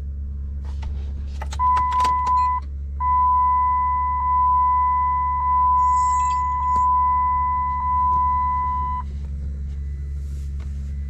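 Keys jangling, then a vehicle warning chime: a short beep followed by a long steady tone of about six seconds, as the Dodge Ram's ignition is switched on before the cold start, over a steady low hum.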